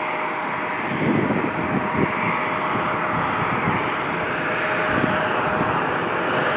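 Airliner jet engines, a steady loud rushing noise with a thin, constant whine over it.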